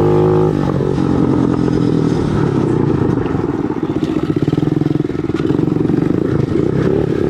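Motorcycle engine running: its tone rises steadily under throttle, then about half a second in the throttle closes and it drops to a choppy, pulsing low-rev run as the bike rolls off.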